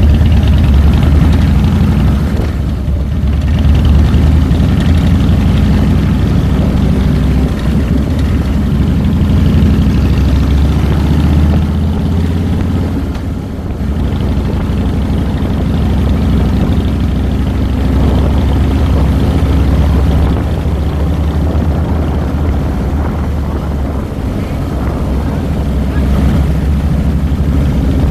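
2007 Harley-Davidson Fat Boy's Twin Cam 96 V-twin engine running steadily while the motorcycle is ridden. The engine note dips briefly about three seconds in and again about thirteen seconds in.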